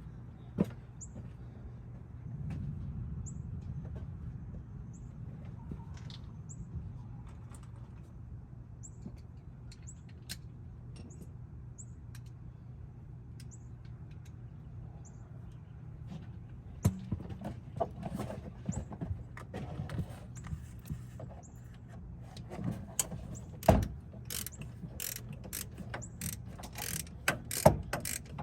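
Hand tools at work on the truck: a ratchet wrench clicking in short runs among sharp metal knocks, growing busier over the last few seconds. Before that, a steady low hum.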